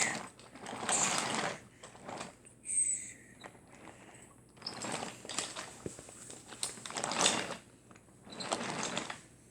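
Wooden toy train rolling over wooden track in short runs: a series of rumbling swishes, each lasting about a second, with a brief squeak about three seconds in.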